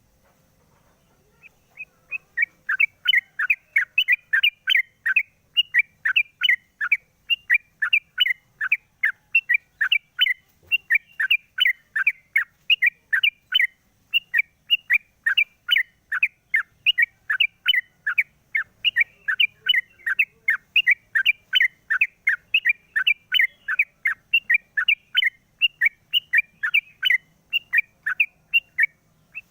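Yellow-vented bulbul (trucukan) singing: a long, unbroken run of short chirping notes, about three to four a second, starting about a second and a half in.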